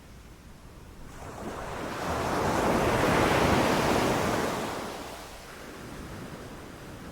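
Ocean surf: a wave builds for a couple of seconds, breaks and washes out. Near the end the next wave begins to build.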